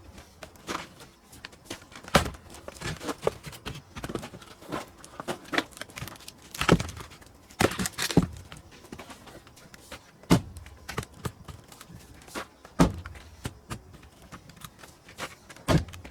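Pine firewood being split and handled: several loud, sharp knocks a few seconds apart, with smaller clacks and clatters of wood between them.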